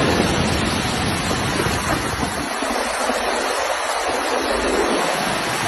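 Floodwater from an overflowing river rushing past: a steady, unbroken sound of fast-moving water.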